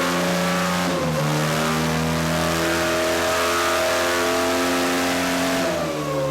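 Honda CRF 230 dirt bike's single-cylinder four-stroke engine running at high, steady revs, with a brief dip in revs about a second in and the revs falling again near the end.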